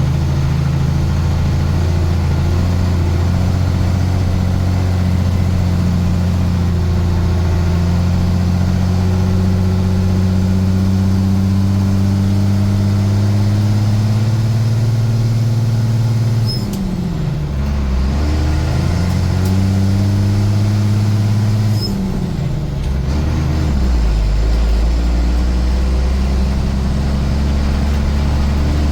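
A vehicle engine pulling under load, its pitch climbing slowly, then dipping and picking up again twice, about two thirds of the way through and a few seconds later, as it shifts gears.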